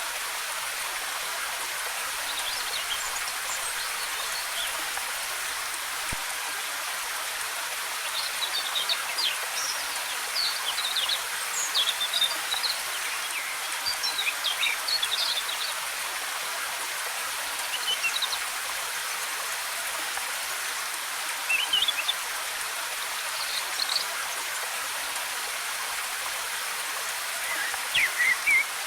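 Waterfall's steady rush of falling water, with birds chirping over it in short high flurries that come thickest through the middle and again near the end.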